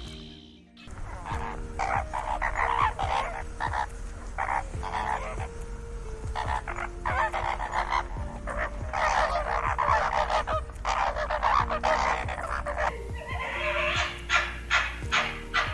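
A dense run of short, harsh animal calls, several a second, with soft background music tones underneath.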